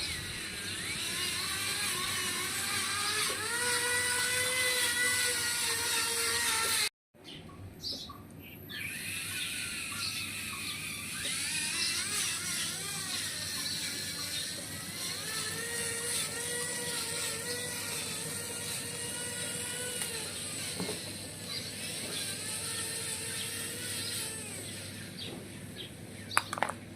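Small electric gear motors of handmade RC model tractors whining, the pitch rising and falling as the load changes during a power test. The sound cuts out briefly about seven seconds in, and a few sharp ticks come near the end.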